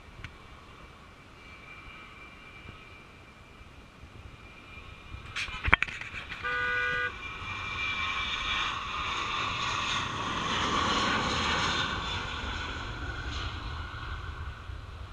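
Ryanair Boeing 737 jet engines passing: a whine builds into a loud jet rush that peaks and slowly fades. A couple of sharp knocks and a short horn toot come a little before the loudest part.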